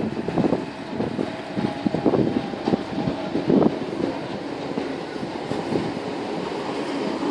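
A passenger train pulling into the platform. The wheels clatter irregularly over the first few seconds, loudest a little after three seconds in, then settle into a steadier rumble as the train draws alongside.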